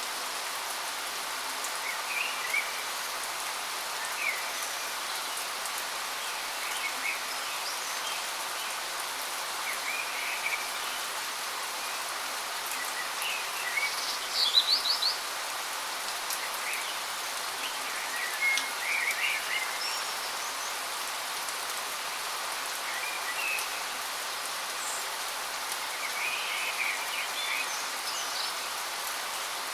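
Steady rushing of a waterfall, with birds chirping on and off over it; the loudest call is a quick run of high notes about halfway through.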